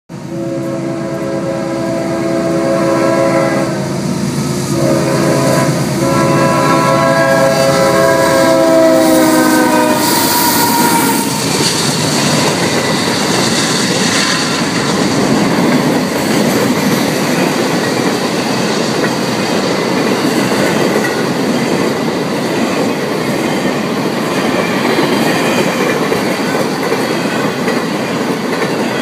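Locomotive air horn sounding two long blasts as it approaches the crossing, the second ending about ten seconds in. Then a CSX intermodal freight train rolls past with a steady rumble and clatter of wheels on the rails.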